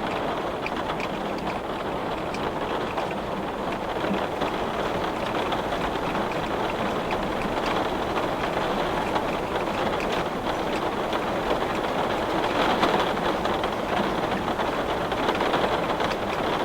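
Heavy rain falling on a glass pane: a steady, dense hiss full of fine drop patter, growing a little louder after the first few seconds.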